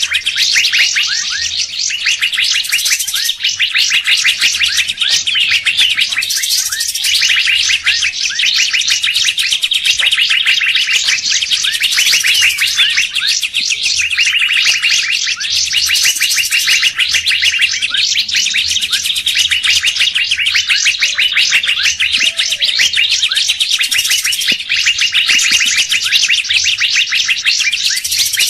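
Bird-lure recording of many songbirds calling over one another. It is a continuous dense stream of rapid chirps, trills and whistles, a mixed lure of fairy-bluebird, leafbird and drongo calls.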